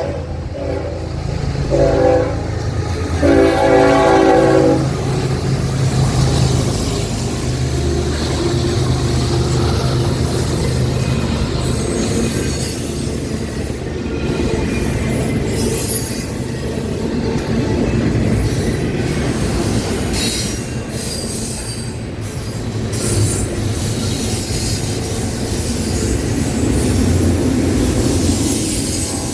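A GE Evolution Series freight locomotive's horn sounds a few blasts, the last and longest ending about five seconds in. Then the lead diesel locomotives rumble past, followed by a long intermodal train whose wheels squeal on the curve, with rail clatter.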